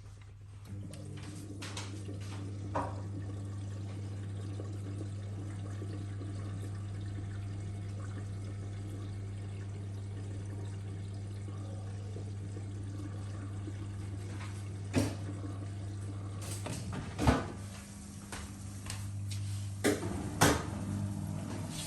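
Miele W1 washing machine's pump humming steadily with water running through it, as in the TwinDos compartment's maintenance flush. The hum eases off for a moment about two-thirds of the way through and then picks up again. A few sharp knocks come on top of it.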